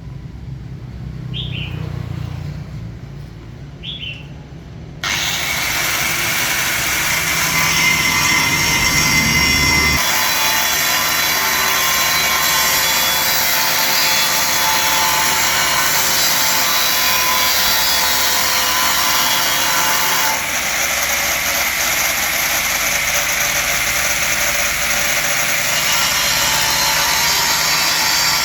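A power tool cutting or grinding starts suddenly about five seconds in and runs steadily, a dense noise laced with high ringing tones. Before it there is a low rumble with two short chirps.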